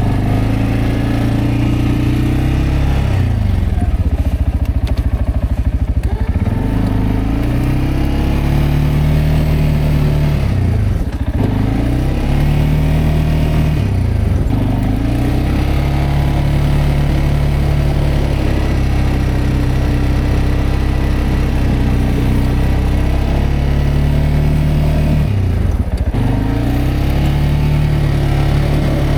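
CFMoto CForce 520L ATV's single-cylinder engine running loud and steady while plowing snow. Its revs drop and climb back up about four times.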